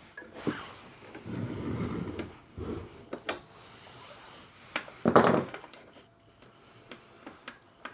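Handling noise as lawnmower parts and tools are moved about: scattered knocks and clicks, a rough scraping stretch early on, and a louder clattering scrape about five seconds in.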